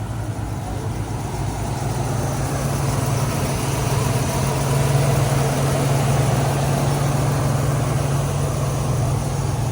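A motor vehicle's engine running steadily at low revs, growing louder toward the middle and easing off a little near the end.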